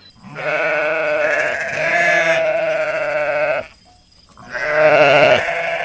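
Two bleats from a farm animal: one long call of about three and a half seconds, then after a short gap a second call of about a second.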